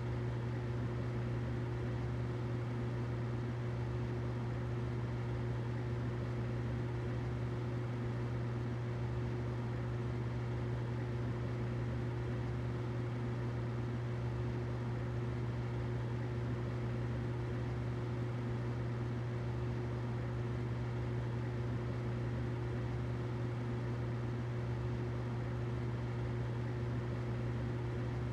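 Humidifier running: a steady low hum with a fainter higher tone over an even hiss, unchanging throughout.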